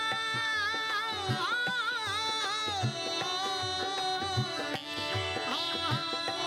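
Rajasthani folk music: a sustained drone under a wavering, ornamented melody line, with steady hand-drum beats.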